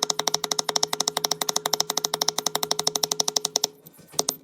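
Rapid, even metal-on-metal tapping on a front wheel hub as a new bearing race is driven in. There are about a dozen taps a second with a ringing note, and they stop abruptly near the end.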